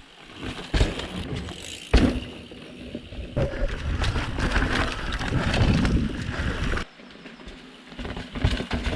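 Mountain bike riding down a rough dirt forest trail: tyre noise with frame and chain rattle, sharp knocks about one and two seconds in, and a quieter stretch near the end.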